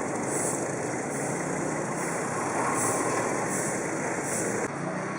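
Engines running at a road construction site amid street traffic: a dense, steady noise with a high hiss that comes and goes, dropping away near the end.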